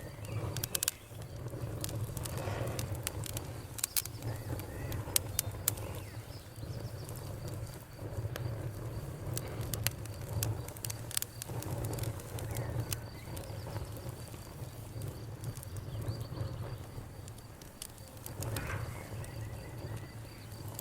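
Wood campfire crackling, with irregular sharp pops and snaps over a steady low rumble of burning. A faint steady high tone runs underneath.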